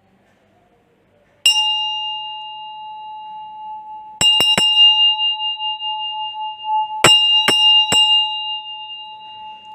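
A small metal bell used in sound healing, struck once, then three quick strikes, then three more. Each strike rings on in a clear, high, steady tone that fades slowly.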